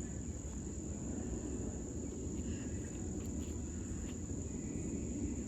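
Insect chorus, crickets or katydids, giving one continuous high-pitched trill over a low background rumble.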